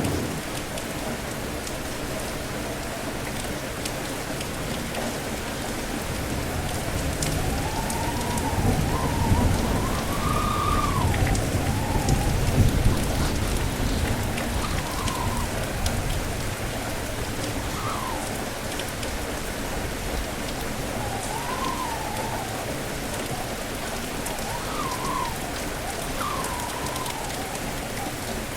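Steady heavy rain, with a rumble of thunder swelling and rolling away in the middle. Strong wind whistles over it in rising and falling tones, several times.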